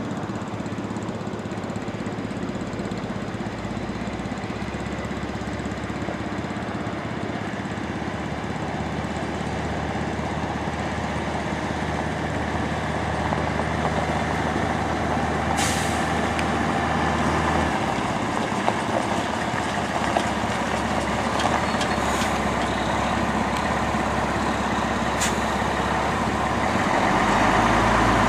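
1981 International 1854 dump truck's engine running steadily, its pitch stepping a few times as the revs change. A short hiss of air-brake air comes about halfway through.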